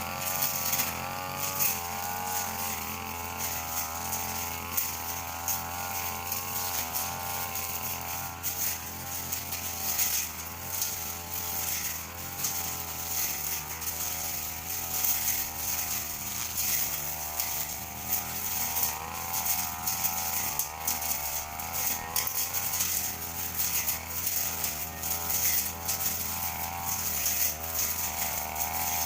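Petrol brush cutter running at working speed, its engine pitch wavering up and down as it cuts through thin grass, with a crackling hiss from the line or blade striking the grass.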